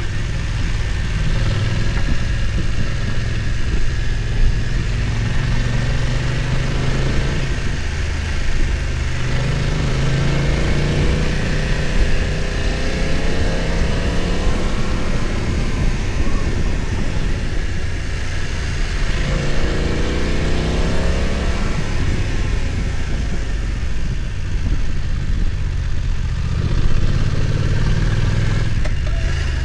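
BMW F900 XR's parallel-twin engine running on the move, its pitch rising and falling as the revs change, most clearly about a third of the way in and again past the middle.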